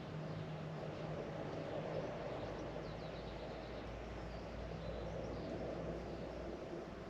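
A steady low motor hum with a deeper rumble that swells through the middle and fades near the end, over outdoor background noise, with a few faint high bird chirps.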